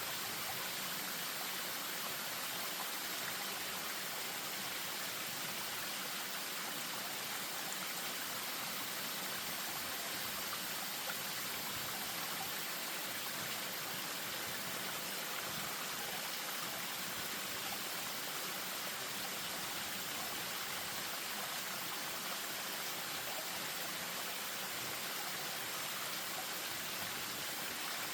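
Spring-fed stream running over a small waterfall: a steady, even rush of water with the most energy high up.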